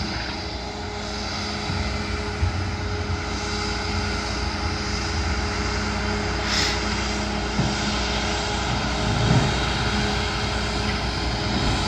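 A steady engine hum, with wind rumbling on the microphone.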